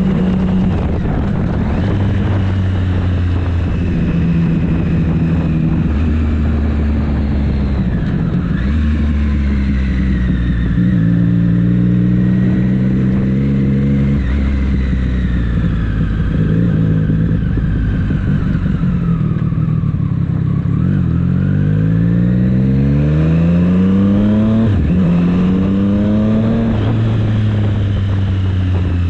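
Triumph Street Triple 765 S's three-cylinder engine under way, holding steady revs for long stretches with occasional changes, then revving up hard through several quick upshifts, the pitch rising and dropping back each time, about two-thirds of the way through.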